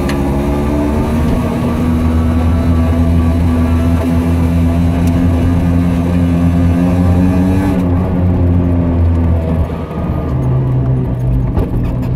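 Car engine heard inside the cabin while driving, its pitch slowly rising for several seconds and then falling off about eight seconds in.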